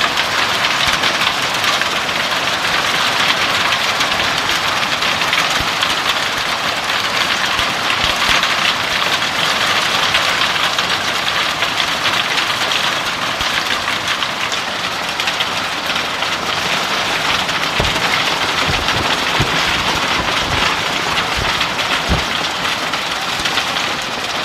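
Hailstorm: heavy rain and hail pelting down in a dense, steady hiss, with a few low thuds in the second half.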